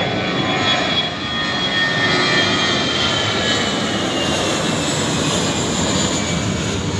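Airliner's engines running loud, a steady roar with a high whine that slowly falls in pitch.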